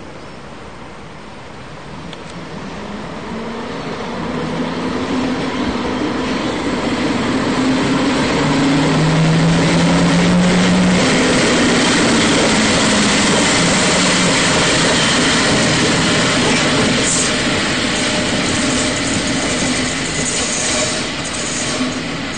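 EP08 electric locomotive hauling a passenger train rolling slowly past, growing steadily louder over the first eight seconds or so and then holding. A low hum is strongest as the locomotive passes, about ten seconds in. A few short high squeals come in the last few seconds.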